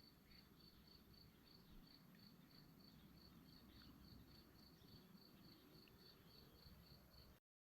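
Faint cricket chirping, a steady train of short pulses on one high pitch at about five a second. It cuts off suddenly near the end.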